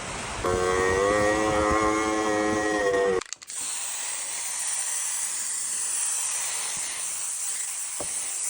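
A motor running with a steady hum for about three seconds, which stops abruptly, followed by a steady hiss.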